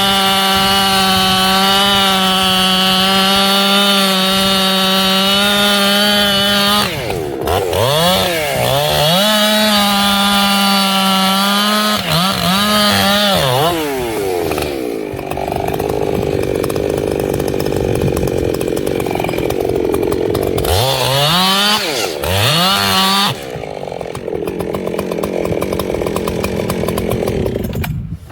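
Echo CS-7310 two-stroke chainsaw running at full throttle, its pitch dropping and climbing back several times. It runs lower and rougher through much of the second half and stops near the end.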